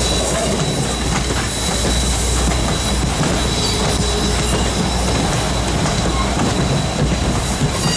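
Steam-hauled passenger train rolling past on a curve, its coaches' wheels clacking over rail joints over a low rumble, with a steady high-pitched wheel squeal on the curve.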